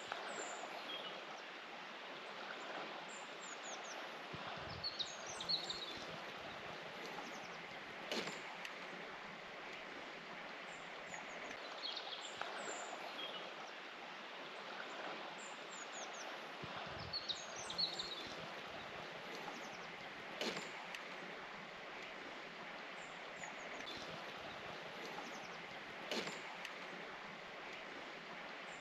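Small birds giving short, high chirps every few seconds over a steady outdoor hiss, with a few sharp clicks.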